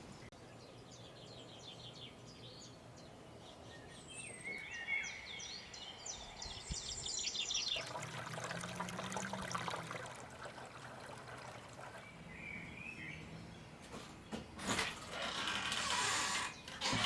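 Small birds chirping and calling in quick series with short gliding notes. About halfway through, bursts of rustling noise come in, and they return louder near the end.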